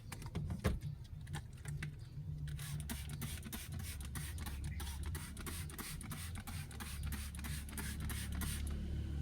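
Quick, rapidly repeated scraping strokes from cleaning inside a car, starting about two and a half seconds in, after a few scattered clicks, over a low steady hum.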